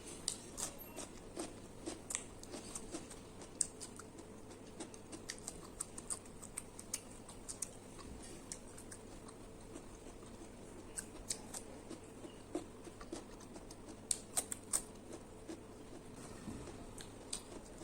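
Eating sounds: chewing and mouth smacks with scattered small clicks, irregular and close up.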